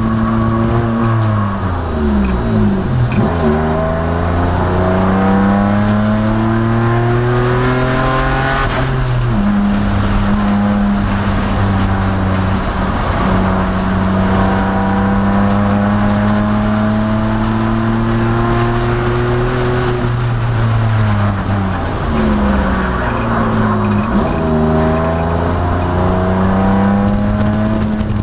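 2002 Nissan Maxima race car's V6 engine under racing load, holding steady revs on the straights. Twice the revs drop away off the throttle and then climb back up under acceleration, with a quick gear change in between.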